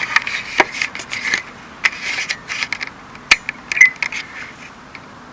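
Equipment being handled and rummaged through close to the microphone: a run of sharp clicks, rattles and scrapes, busiest over the first three seconds, with a short high beep-like tone about four seconds in.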